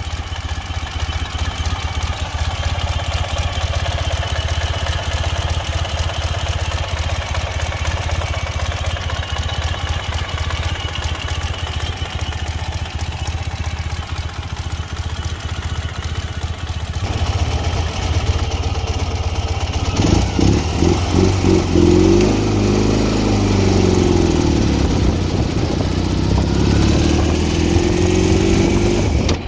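2010 Ural 750 motorcycle's air-cooled flat-twin engine running at a steady idle, then from about twenty seconds in revved up and down several times.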